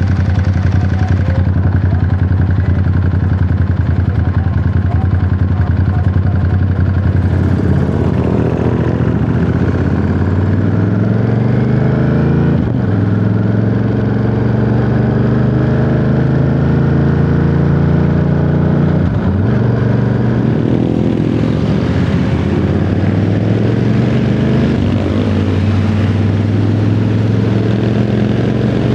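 Ducati Monster 937's 937 cc Testastretta L-twin running at a steady low pitch, then pulling up through the gears: the engine note rises several times, broken by brief drops at the gear changes about 12 and 19 seconds in.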